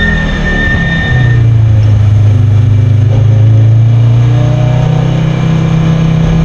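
Audi Quattro S1 rally car's turbocharged five-cylinder engine, heard from inside the cabin. It is off the throttle at first, then about a second in it comes back on load and pulls hard at a steady note.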